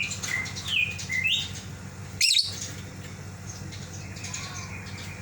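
Lovebird chirping in short rising and falling calls, with one loud, shrill call about two seconds in, calling out to a companion that has left the cage. A steady low hum runs underneath.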